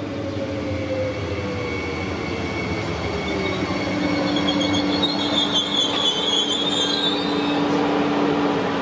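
A train running past on the line, a dense steady rumble that slowly grows louder. A lower tone slides slowly down in pitch over the first few seconds, and high-pitched ringing tones from the wheels come in around the middle and run on for several seconds.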